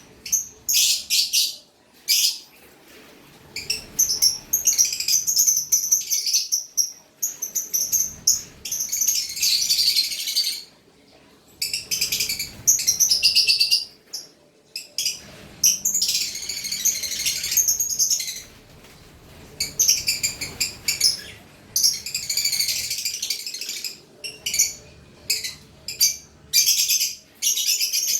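Lovebirds chattering: bursts of rapid, shrill, high-pitched chirps, some brief and some lasting several seconds, with short pauses between.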